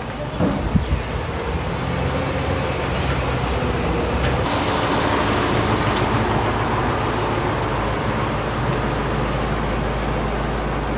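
A motor engine running steadily, with a few short knocks about half a second to a second in; the sound grows fuller about four and a half seconds in.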